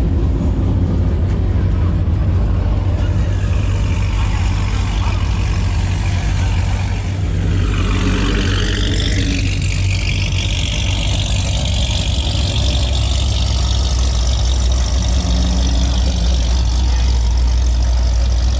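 A vehicle engine running steadily with a strong low rumble. About eight seconds in, a higher rushing sound sweeps down in pitch and then back up.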